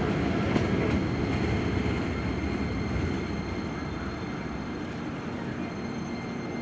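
Keisei electric train running on the track, its low rumble slowly fading as it draws away, with faint steady high-pitched tones above it.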